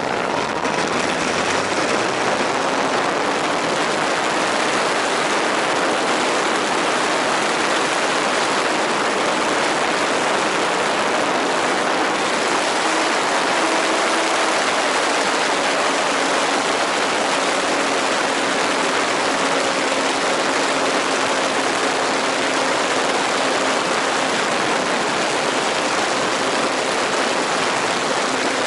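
A steady rushing noise, with a faint engine hum beneath it that wavers slowly in pitch, as from a radio-controlled model airplane's engine.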